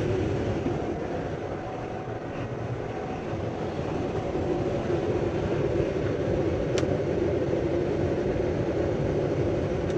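Furnace blower running with a steady rush of air, and a single sharp click about seven seconds in.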